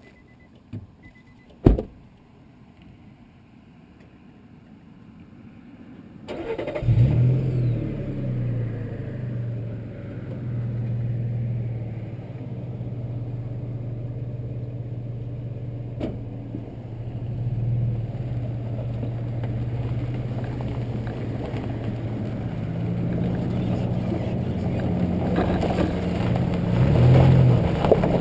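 2005 Nissan Xterra's 4.0-litre V6 being started about six seconds in: a short crank, then it catches with a quick rev flare and settles into a steady idle, with a couple of light revs later on. Heard close to the exhaust from low on the rear bumper.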